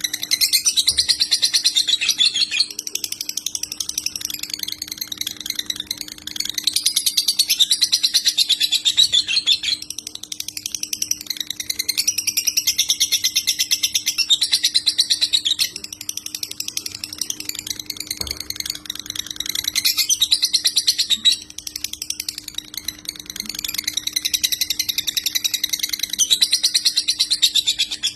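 Lovebird singing in the fast, rattling 'konslet' style: bursts of rapid high chatter a few seconds long with brief pauses between them. A steady low hum lies underneath.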